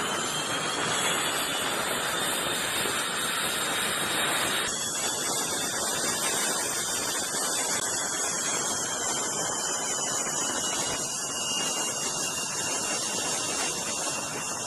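Jet aircraft engine running at high power: a steady rushing hiss with a high turbine whine that drifts slowly in pitch. The sound changes abruptly about four and a half seconds in.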